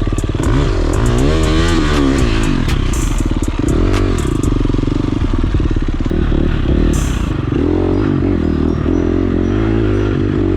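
KTM 350 dirt bike's single-cylinder four-stroke engine being ridden on a trail, its pitch rising and falling repeatedly as the rider revs on and off the throttle, with scattered sharp ticks over it.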